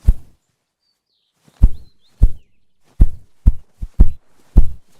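Male ruffed grouse drumming: deep thumps from his wing beats, one on its own and then, after a short pause, a run of thumps that come faster and faster. This is his mating display, made to attract a female.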